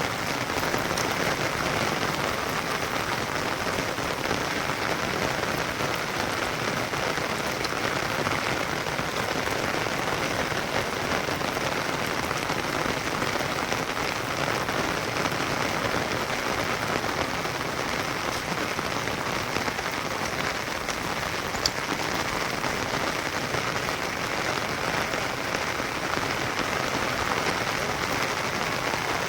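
Steady rain falling and pattering on surfaces, an even hiss that doesn't let up, with a single sharp click about two-thirds of the way through.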